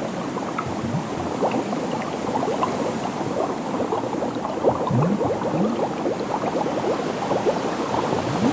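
Underwater bubbling: a dense stream of small bubbles popping and gurgling, with a few larger bubbles rising in quick little blips about five seconds in.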